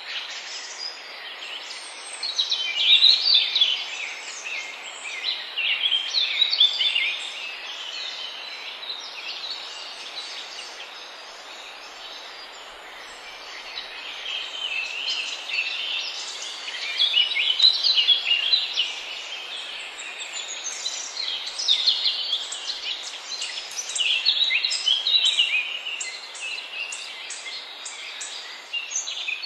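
Several songbirds chirping and trilling in quick, high-pitched phrases over a steady background hiss, busiest in the first few seconds and again in the second half.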